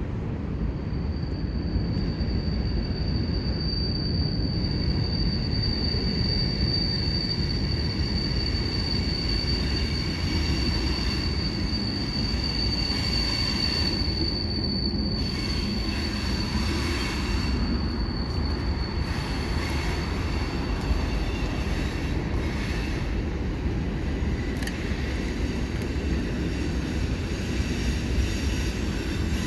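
Freight train cars rolling over a bridge on a sharp curve, with a steady rumble and a long, high-pitched wheel squeal that starts about a second in, swells, and fades out about two thirds of the way through, with fainter squeals after. The squeal comes from the wheels grinding against the rails through the curve.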